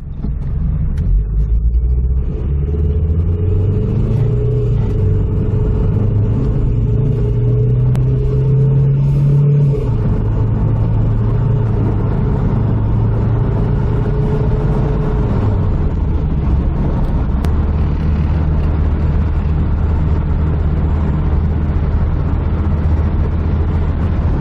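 Interior sound of a 1986 Toyota Starlet Turbo S's turbocharged four-cylinder engine and road noise while driving. The engine note climbs for the first ten seconds, drops suddenly, steps down again a few seconds later, then holds steady at a cruise.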